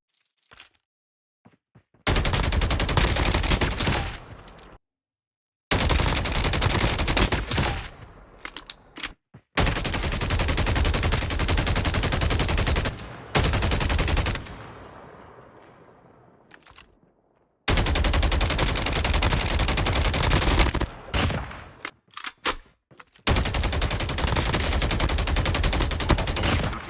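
Loud, dense crackling noise, like a rapid patter of many small impacts, in about five separate stretches that each start and cut off abruptly, with short silences between them.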